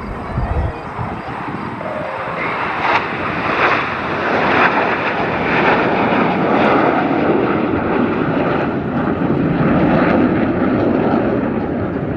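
Jet engine noise from the Blue Angels' four-jet diamond of F/A-18 Super Hornets passing in an aileron roll, growing steadily louder.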